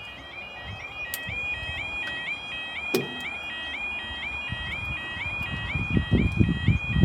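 Level crossing audible warning alarm sounding: a rapid, repeating stepped two-tone warble, several cycles a second. A low, uneven rumble grows louder near the end.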